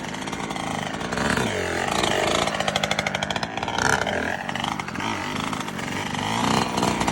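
Yamaha YZ125 dirt bike's two-stroke single-cylinder engine revving, its pitch rising and falling several times as the throttle is worked.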